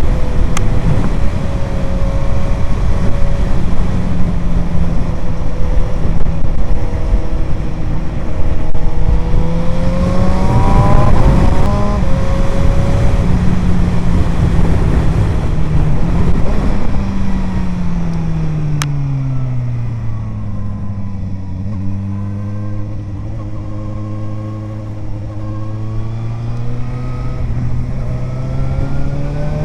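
Suzuki GSR 750 inline-four with an aftermarket Ixrace Z7 exhaust, ridden at steady speed with heavy wind noise. The engine note climbs quickly about ten seconds in. It falls away as the bike slows around two-thirds through, runs low and steady, then rises again as it accelerates near the end.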